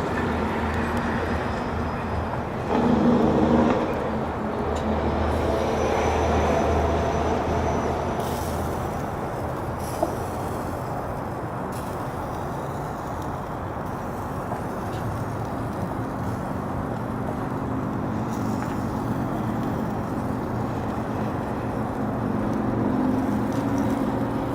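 A steady, low engine rumble, swelling louder about three seconds in, with a single click about ten seconds in.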